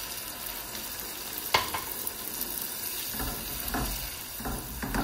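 Beef cubes and onions sizzling in a pot as a glass of red and white wine is poured in, with a sharp knock about a second and a half in. Near the end a silicone spatula stirs through the meat in four strokes.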